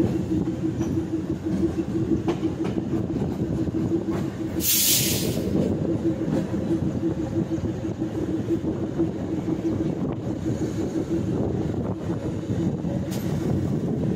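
Moving passenger train heard from the side of the coach: a steady rumble of the wheels on the rails with a steady hum running through it, and a brief hiss about five seconds in.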